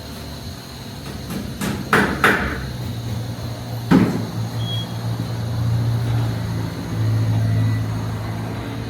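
A few sharp knocks and clanks, then a vehicle engine running with a low, steady hum that swells briefly a couple of times.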